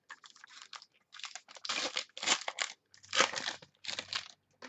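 Trading-card packaging crinkling and cards being handled, in several short scratchy bursts.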